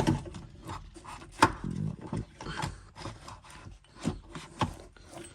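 Irregular clicks, knocks and rubbing as a car's seatbelt assembly and plastic interior trim are pulled and worked loose by hand, with the sharpest knock about a second and a half in.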